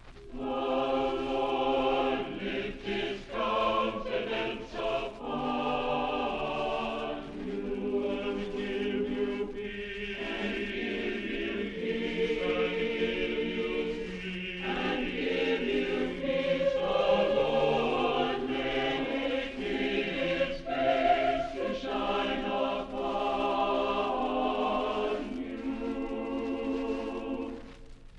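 Choir singing, holding sustained chords that shift every second or two, and easing off near the end.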